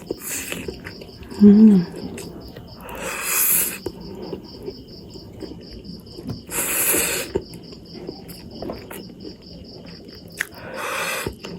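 Crickets chirping steadily, about five chirps a second. Over them come three breathy mouth sounds from the person eating spicy instant noodles, and a short hum about a second and a half in.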